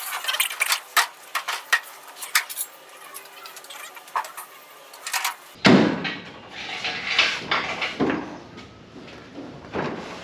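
Sharp metallic clinks and taps of sheet metal and tools as a car's replacement roof structure is fitted. After an abrupt change about halfway, a few heavier knocks and thumps follow.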